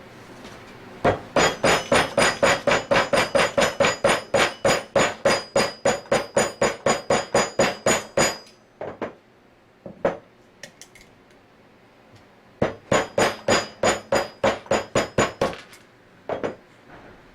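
A mallet tapping on a flat-head screwdriver, metal ringing at each blow, to drive out the G seals of an Anest Iwata scroll compressor. It comes as a long quick run of about four taps a second, a few lone taps, then a second shorter run.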